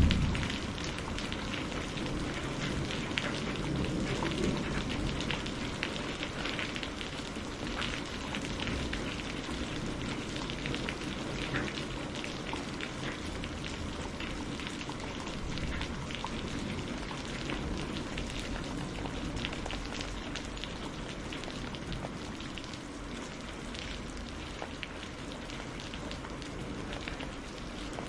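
Steady rain falling, a dense patter of drops on surfaces, with the low tail of a thunderclap dying away in the first few seconds.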